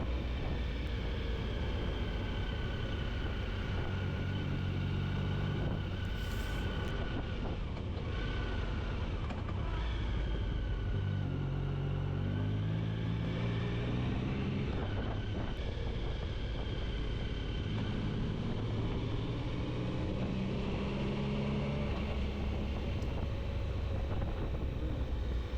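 Motorcycle engine running on the move, heard from the bike, its pitch rising and falling several times as the revs change.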